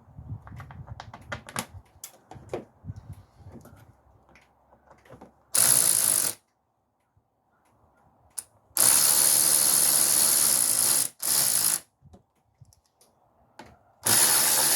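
Ratchet wrench clicking, then a power tool running in several bursts of about one to two seconds as a motor-mount bolt on a Ford Focus is run in.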